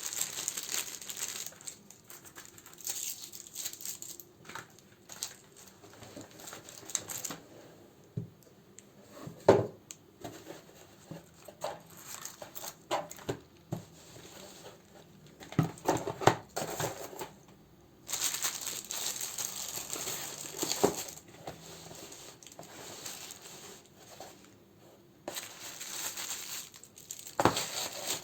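Plastic wrappers and paper crinkling as candles are handled and sorted, in several stretches, with scattered sharp taps and knocks in between.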